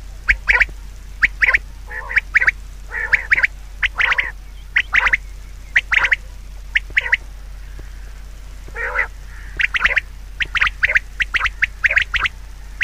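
Birds calling: many short calls, often two or three in quick succession, over a steady low hum.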